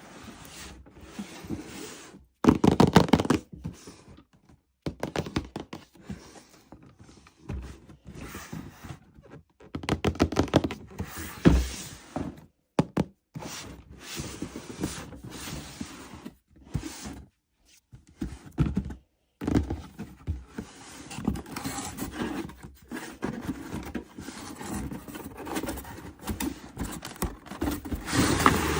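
Toys and their packaging being handled: irregular thunks, knocks and scraping, in uneven bursts with short silent gaps.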